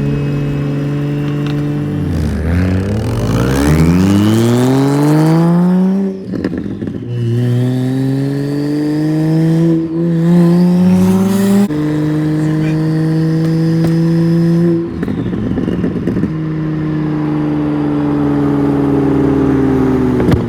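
Single-turbo BMW 335i N54 inline-six pulling hard: its pitch climbs steeply, breaks off at shifts around six and fifteen seconds in with short revving pulls between, then holds and sinks slowly near the end. A thin whistle rises with the first pull.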